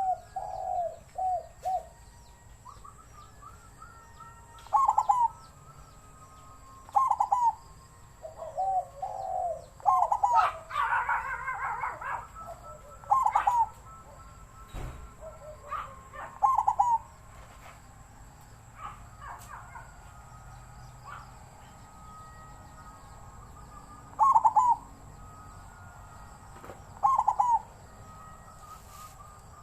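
Zebra dove cooing in its wild-type voice. It gives short phrases of quick, rolling coo notes, about eight in all, with pauses of a few seconds between them. A flurry of higher chirps joins in near the middle.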